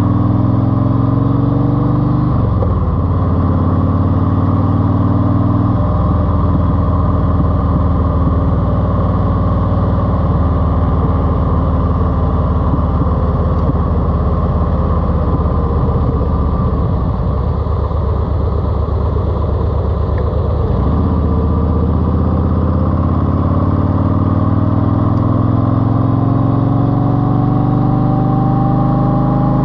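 Car engine running through an aftermarket TAB exhaust with 2.5-inch baffles. The pitch shifts a few times, then climbs steadily through the last several seconds as the engine revs up.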